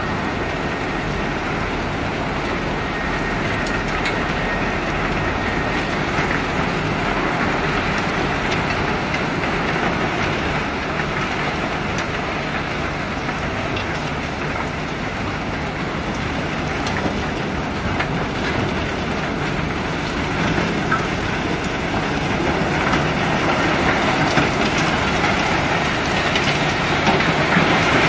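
Cobblestones rattling and clattering in a steady stream as a self-unloading ship discharges them, with the unloading machinery running underneath. It grows a little louder in the last few seconds.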